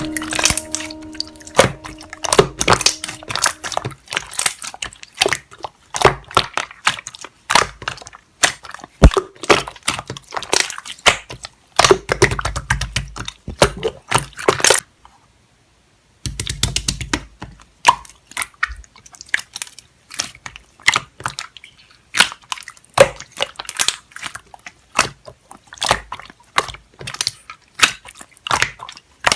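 Slime being squished, pressed and poked by hand, giving dense, irregular runs of sticky clicks and crackles. There is a short break about halfway through.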